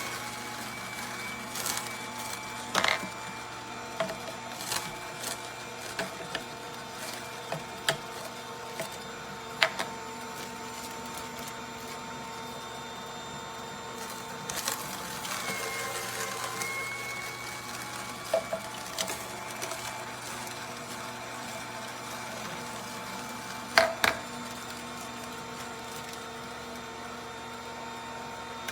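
Electric juicer motor running with a steady hum, with scattered sharp clicks and knocks, the loudest a pair near the end.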